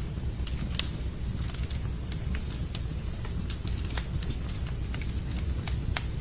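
Wood fire crackling in a fireplace: irregular sharp pops and snaps over a low steady rumble, with louder pops about a second in and about four seconds in.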